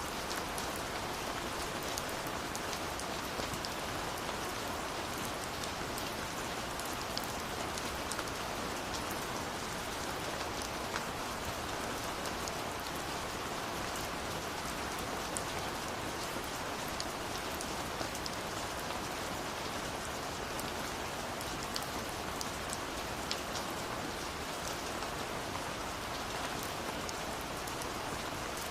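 Steady rush of a waterfall with the scattered crackles and pops of a wood fire.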